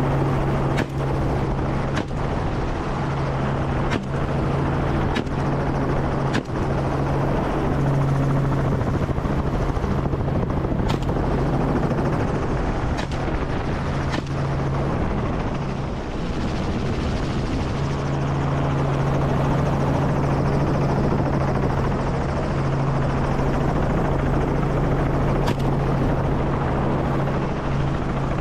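Helicopter in flight, its rotor and engine giving a steady, continuous low hum that is broken by a few brief dips.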